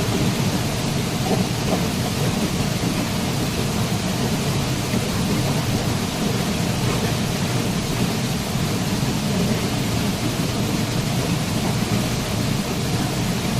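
Waterfall: falling water making a steady, unbroken rushing noise with a deep low rumble.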